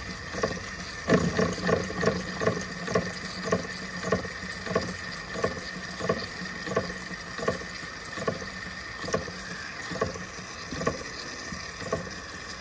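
Empire B42 toy steam engine turning over slowly on low steam pressure, its exhaust chuffing about two to three beats a second, unevenly, as it struggles to keep going.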